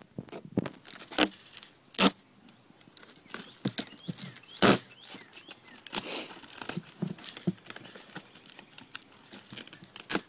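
Duct tape being ripped off the roll and pressed onto a foil-covered cardboard box, with three loud rips and a run of smaller crinkles and rustles from the aluminium foil and tape.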